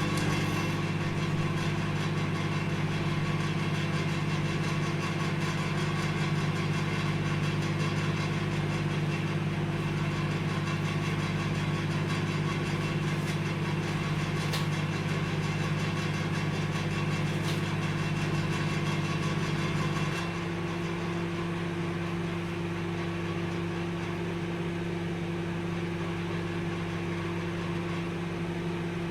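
Microwave oven running with a steady hum. About twenty seconds in the hum gets slightly quieter and changes tone, then carries on steadily, with a couple of faint ticks along the way.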